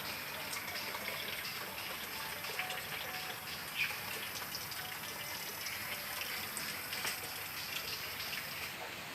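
Steady rain falling, with scattered drops ticking and a few louder splashes.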